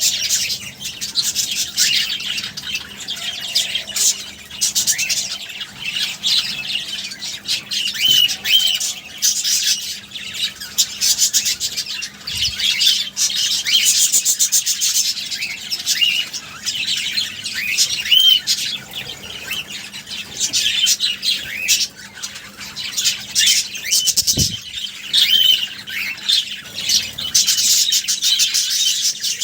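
Budgies chattering without a break: a dense run of quick high chirps, clicks and squawks. A single low knock comes late on.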